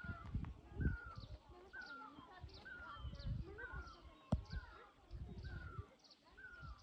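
A bird calling over and over, the same short falling call about once a second, with bursts of low rumbling noise and a single sharp click about four seconds in.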